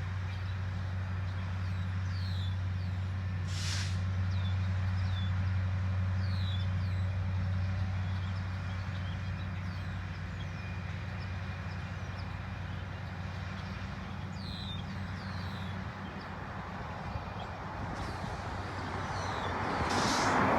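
Diesel engines of Genset switcher locomotives running with a steady low hum while the train creeps forward. There are two short hisses of air, one about four seconds in and one near the end, and faint bird chirps.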